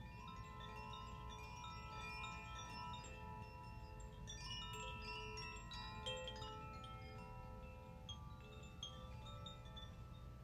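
Chimes struck by hand and ringing, many overlapping metallic tones sounding at random and ringing on, over a faint low steady hum.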